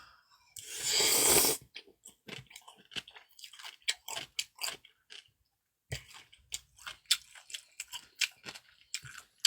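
Close-miked mukbang eating of cold noodles and dumplings: a second-long slurp about a second in, then wet chewing with many small crunchy clicks.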